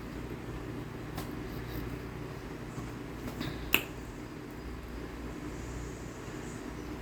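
A couple of sharp, crisp crunches of compressed cornstarch being bitten, a faint one about a second in and a louder one just before four seconds, over a steady low hum.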